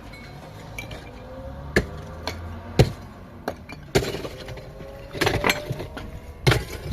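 Irregular sharp knocks and clinks of hard objects being struck, about eight blows spread over several seconds. A faint tone slowly rises in pitch underneath.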